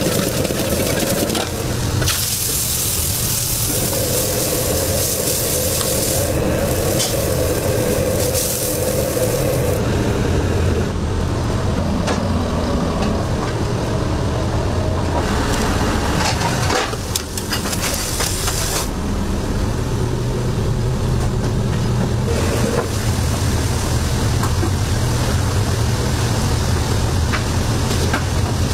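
Food sizzling and being stirred in a hot wok, over a steady low hum. The hiss changes character several times as the sound jumps between short clips.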